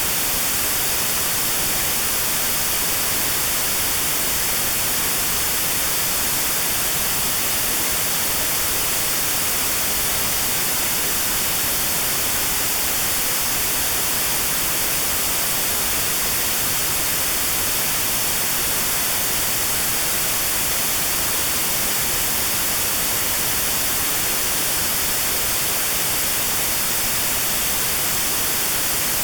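Steady white noise with a narrow band around 4 kHz notched out: notched sound therapy for tinnitus at that pitch.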